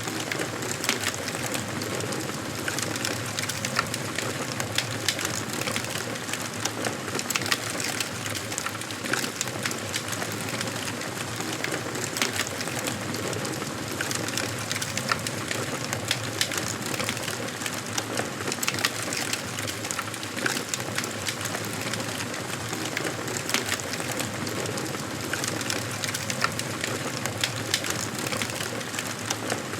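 Wood fire burning in a fireplace, crackling and popping at irregular intervals over a steady hiss of flames.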